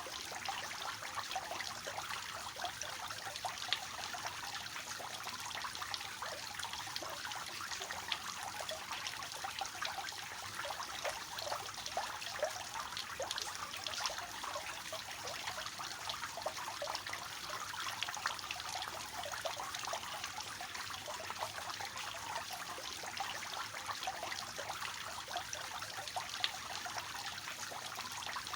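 Water falling from a three-tiered cascading fountain, a steady trickling and splashing.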